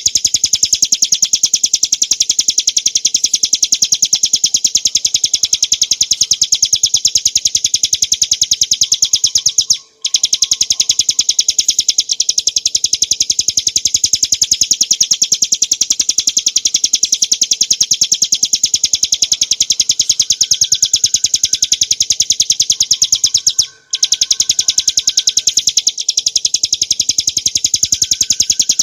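Ciblek gunung, a mountain prinia, singing a continuous, very fast, high-pitched rattling trill (the 'ngebren' song). It breaks off briefly twice, about ten seconds in and again near the end.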